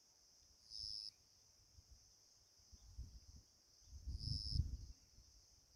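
Faint background of insects: a steady high-pitched hum with two brief louder chirps, about a second in and again around four seconds. A low rumble comes in around the second chirp.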